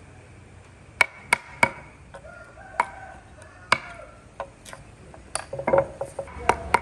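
A series of sharp knocks, about ten, irregularly spaced and coming closer together near the end, like a tool striking wood.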